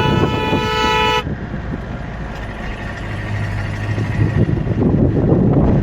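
A vehicle horn honks once for about a second, followed by the steady rumble of a motor vehicle's engine and road noise.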